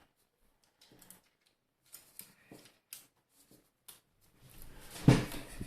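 Small hand tools being handled: a scatter of light clicks and taps, then a louder knock about five seconds in.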